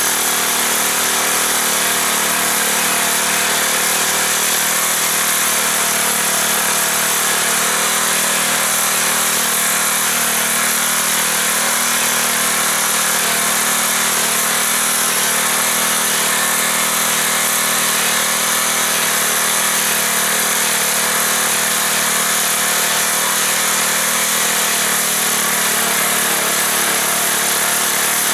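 Small air-cooled gasoline engine of a homemade four-wheel-drive mini tractor running steadily under way, heard close up.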